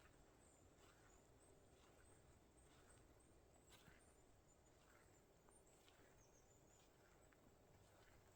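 Faint footsteps crunching through fresh snow at a steady walking pace, about one step a second, over quiet forest hiss.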